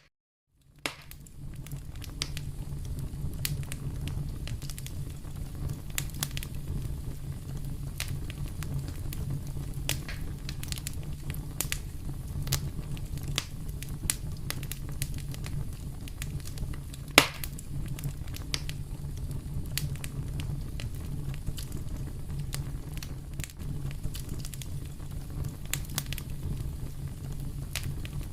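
Fire burning in a fireplace: a steady low rumble with frequent sharp crackles and pops, and one loud pop a little past the middle. A brief moment of silence just at the start.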